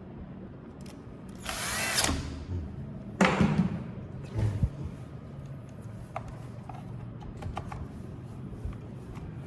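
A small electric power tool motor runs in two short bursts, each about half a second, and falls in pitch as it winds down. A few light clicks follow.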